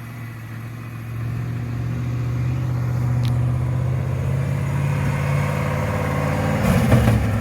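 Engine of a mini S10 monster truck running steadily, growing louder over the first couple of seconds and then holding, with a short rattle near the end.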